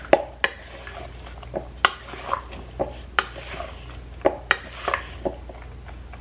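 A spoon stirring cooked beans and rice in a bowl, clinking and knocking against the bowl's sides at irregular intervals.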